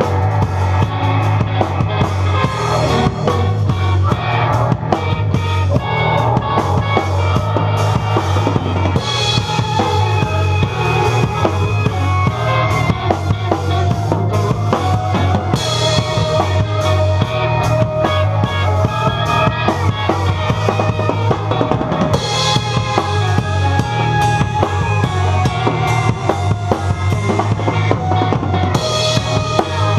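Rock music with a full drum kit keeping a steady beat, bass drum and snare to the fore.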